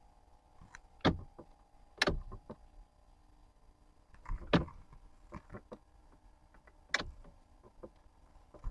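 Irregular sharp clicks and knocks from a Lancia Delta's dashboard electrics, at uneven spacing, over a faint steady hum: the hazard switch is being worked while the hazard relay is listened for by its clicking.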